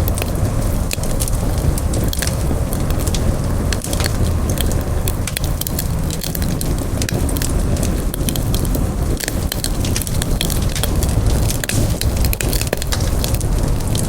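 Campfire burning, with frequent sharp crackles and pops of the wood over a steady low rumble.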